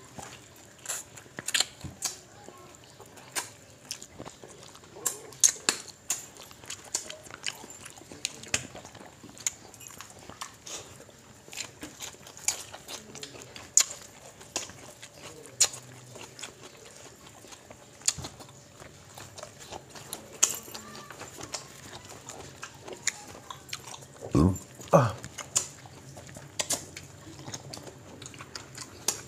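Close-up eating noises: wet chewing, lip smacks and mouth clicks in an irregular stream as two people eat rice and fried fish with their hands. About three-quarters of the way in come two short, louder vocal sounds.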